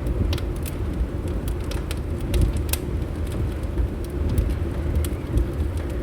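Fireplace crackling: scattered sharp pops and snaps, one louder pop a little before the middle, over a steady low rumble.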